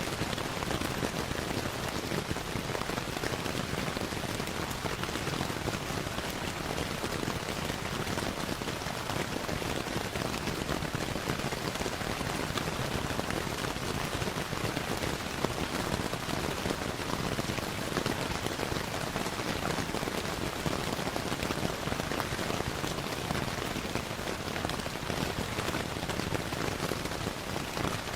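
Steady, even rainfall mixed with the crackle of a wood fire, a dense hiss sprinkled with small scattered ticks.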